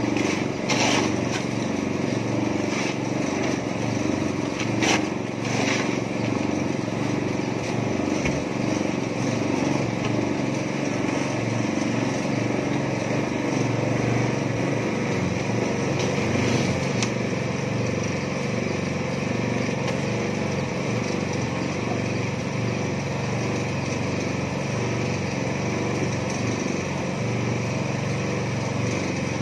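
Small petrol engine of a mini concrete mixer running steadily while the drum turns a cement mix. A few sharp knocks come in the first few seconds.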